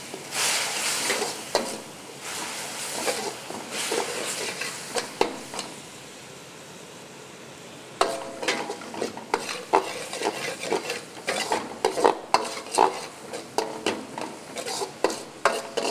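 Masala sizzling in a hot wok as chicken stock water hits it, the hiss strongest in the first second or two, while a steel ladle stirs it. After a quieter spell the ladle scrapes and clinks against the wok in quick strokes through the second half.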